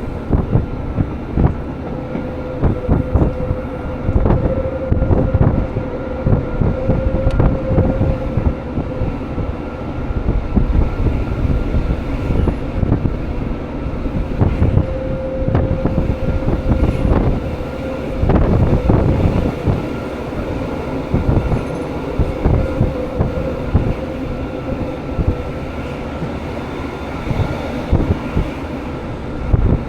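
Jungfrau Railway electric rack train running steadily, with a steady motor whine over the rumble and frequent clicks and knocks from the wheels and track.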